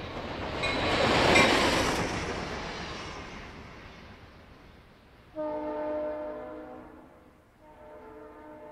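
Pan Am Railways diesel locomotive and track inspection car passing at speed: a loud rush of engine and steel wheels on rail that peaks about a second and a half in and fades as the train goes by. The locomotive's multi-tone air horn then sounds twice as it recedes, a blast of about a second and a half starting around five seconds in and a quieter, longer blast near the end.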